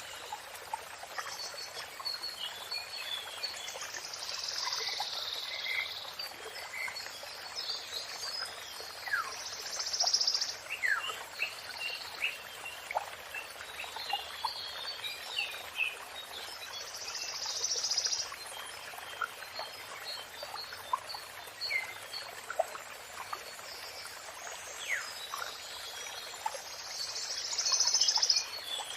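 Songbirds chirping and whistling in quick, scattered notes over the steady rush of running water, with a louder, harsher high burst of song every several seconds.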